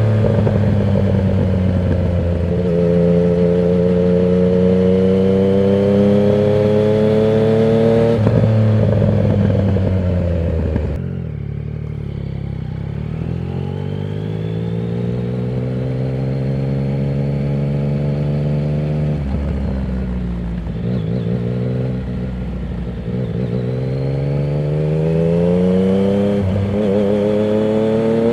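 Yamaha MT-09's three-cylinder engine through a Termignoni exhaust with its dB killer removed, under way with the revs rising and falling through throttle and gear changes. The throttle closes about eleven seconds in, the engine pulls again, and near the end it revs up hard.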